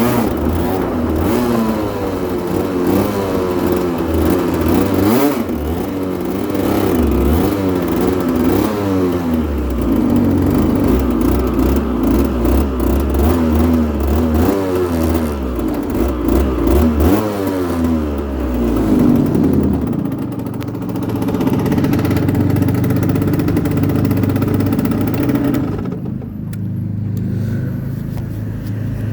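Aprilia RS125's single-cylinder two-stroke engine revved up and down again and again, then settling to a steadier, lower note about two-thirds of the way through, going duller near the end.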